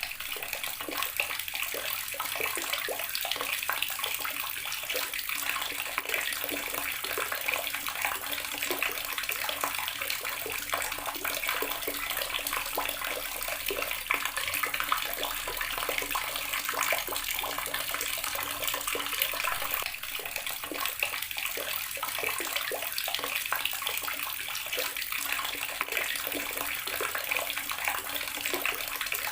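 Water running steadily from a garden tap, splashing constantly as it falls.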